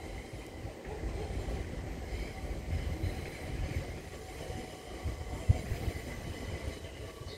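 Steady rumble of a train at the station, with faint steady whining tones above it and a single sharp knock about five and a half seconds in.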